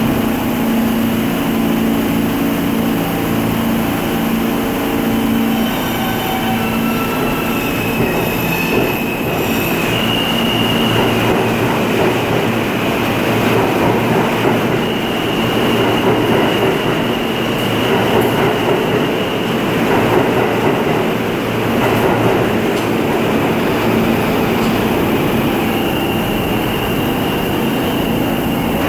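R160 subway train pulling out and accelerating, its traction motors humming, then whining upward in pitch in steps. The cars then rumble and clatter past on the rails, with high-pitched wheel squeal coming in several times.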